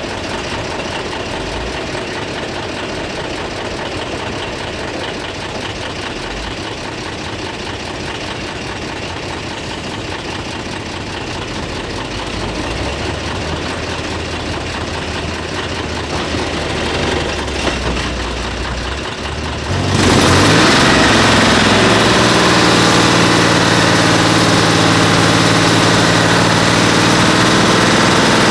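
Heavy diesel truck engine running at low revs, then about twenty seconds in it revs up sharply and runs hard and loud under load, as when towing a stuck truck out of sand.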